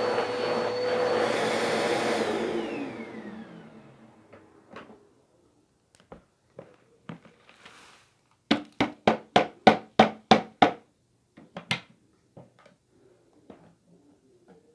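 A household electric appliance motor runs with a steady whine, is switched off about two seconds in and winds down with falling pitch. Later come scattered clicks and a quick run of about nine sharp knocks, about four a second.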